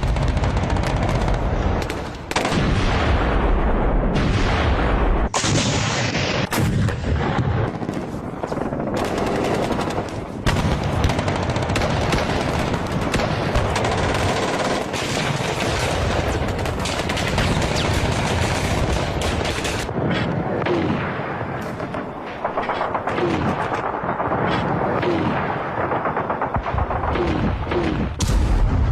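Continuous battlefield gunfire: dense, rapid machine-gun fire mixed with single shots, over a deep low rumble of heavier fire.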